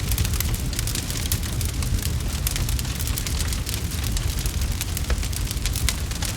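Wood fire crackling: a dense run of small sharp pops and snaps over a steady low rumble.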